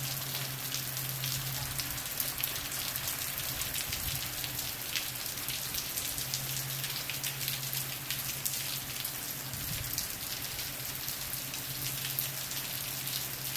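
Heavy rain falling steadily on grass and a concrete driveway, with many individual drop hits standing out sharply over the even wash of rain.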